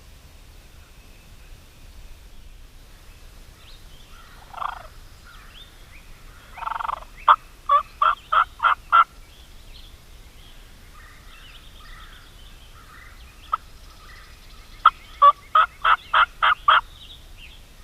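Turkey yelping: two runs of six or seven sharp yelps at about four a second, one near the middle and one near the end, with a short rougher call just before the first run.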